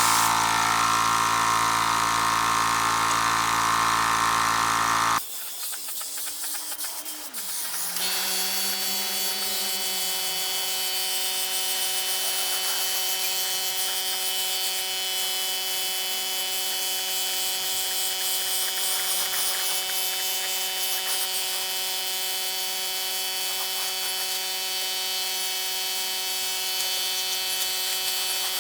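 Electric power tools running steadily. One motor cuts off abruptly about five seconds in, and a few seconds later a different, higher steady motor hum takes over.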